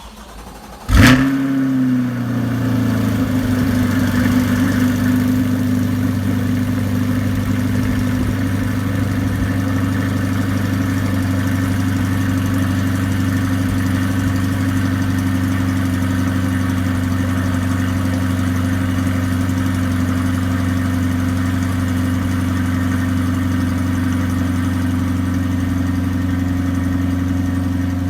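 Chevrolet C8 Corvette Stingray's 6.2-litre LT2 V8 cold-starting: it catches about a second in with a loud flare, drops back over the next couple of seconds, then runs at a steady cold idle.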